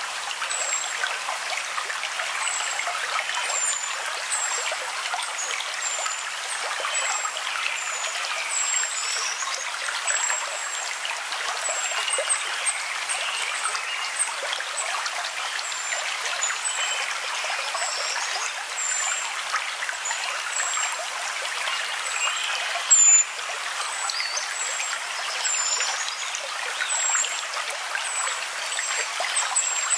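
Steady trickling of running water, with short high chirps repeating about once a second above it. A brief louder burst stands out about three-quarters of the way through.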